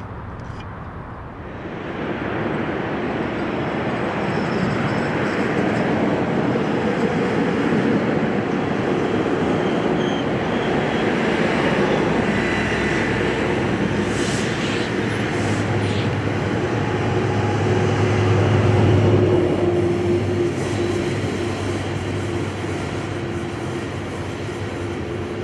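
Metrolink diesel commuter train with bi-level coaches passing close by, its wheels rolling over the rails with the locomotive's engine running. The sound builds about two seconds in, is loudest about three-quarters of the way through, then fades as the train moves away.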